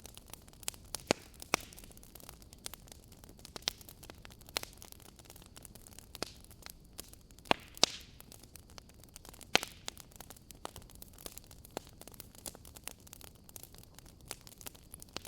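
Wood fire in a fireplace crackling: irregular sharp pops and snaps over a soft steady hiss, the loudest pops about a second in, around eight seconds in and near ten seconds.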